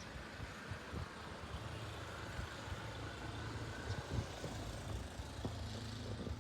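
A vehicle engine running: a steady low rumble with a faint hiss.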